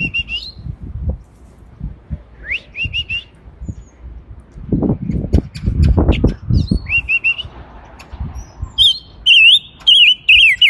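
A caged songbird calling: short whistled notes with quick rising and falling sweeps, in groups of three or four, turning loud and rapid in the last couple of seconds. Low thumps and rumbling come in around the middle.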